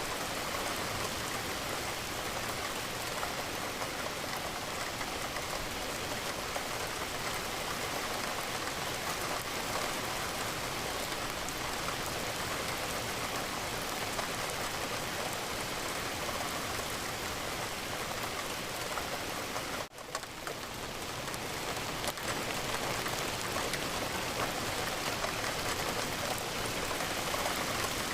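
Steady rain falling, a dense patter of raindrops. About two-thirds of the way through, the sound drops out for a moment and swells back over a couple of seconds.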